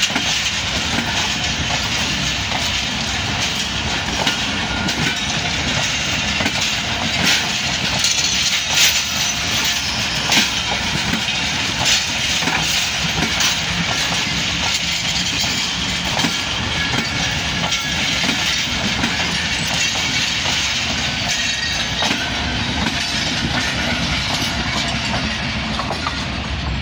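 Passenger train coaches rolling past close by, a steady rumble with the wheels clicking over the rail joints. The last coach goes by near the end.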